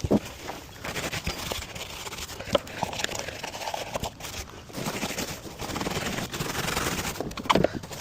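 Car-detailing work noises: a sharp knock right at the start, another about two and a half seconds in and a louder one near the end, with a stretch of rough rubbing or scraping noise before the last knock.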